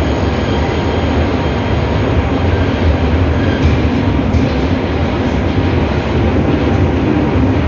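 TGV high-speed train rolling along the platform as it arrives, a steady, loud rumble of wheels on rails, with faint squealing tones dying away in the first second or so.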